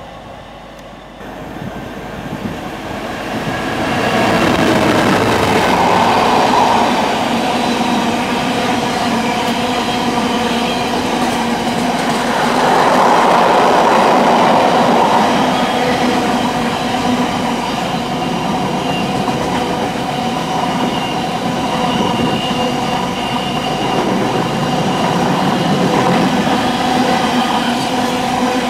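Intermodal container freight train passing close by at speed, the wagons running over the rails with several steady tones under the noise. It grows loud about two to four seconds in as the train draws alongside and stays loud as the wagons keep passing.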